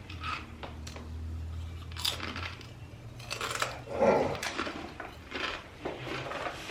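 Grocery bags and food packaging being handled and taken out, crinkling and rustling in irregular bursts. A low hum runs for the first couple of seconds, and a duller thump comes about four seconds in.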